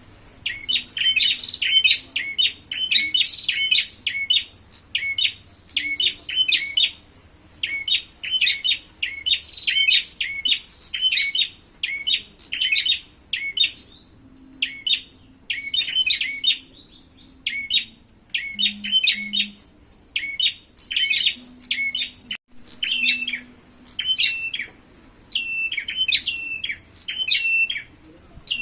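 Prenjak (prinia) birds calling in rapid strings of sharp chirps, with only short pauses, as in a territorial fight.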